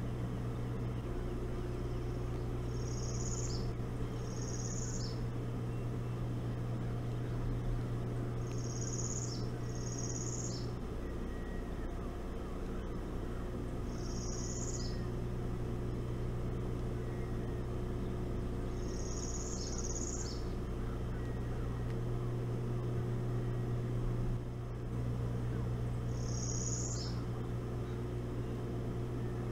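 A bird's high, short call, given singly or in quick pairs about every five seconds, each dropping slightly at its end. Under it runs a steady low hum.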